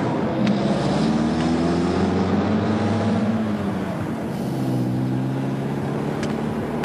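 A car engine running, its pitch drifting up and down and settling about four seconds in, with a few faint clicks.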